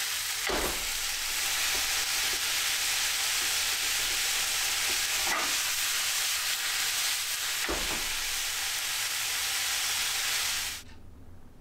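Cabbage sizzling in a frying pan over a gas flame as it is stir-fried, with three short knocks of the utensil against the pan. The sizzle cuts off suddenly near the end.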